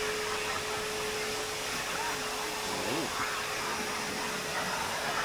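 Car-wash machinery running: a steady rushing noise with a constant mid-pitched whine.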